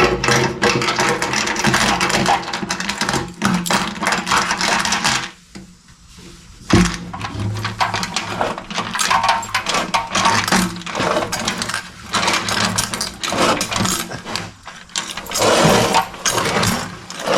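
A chain rattling and sliding back and forth inside a motorcycle's steel gas tank as the tank is shaken, to knock loose rust. The rattling stops for about a second midway and picks up again with a sharp knock.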